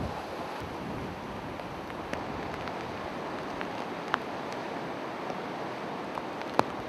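Steady rushing noise of typhoon wind and rough water, with a few faint ticks and one sharper click near the end.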